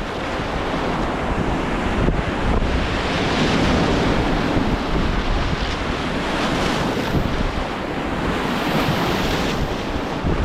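Steady rush of whitewater, with wind noise on the microphone.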